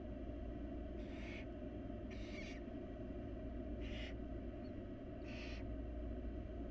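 Barn owls giving rasping, hissing screech calls, four in a row about a second and a half apart, over a steady low hum.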